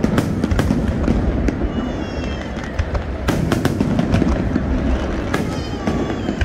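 Aerial fireworks bursting overhead in quick succession: a dense barrage of sharp bangs, several a second, over a continuous low rumble.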